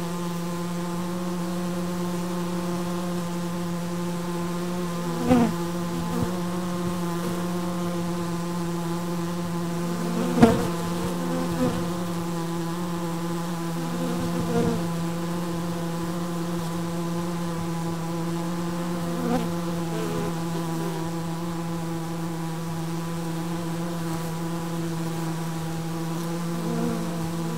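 Honeybee colony humming steadily inside a Japanese box hive, with a few single bees buzzing close past, the loudest about ten seconds in.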